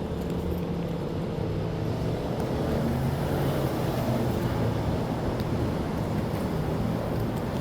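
Street traffic noise: a steady rumble of vehicles with a low engine hum, swelling slightly a few seconds in.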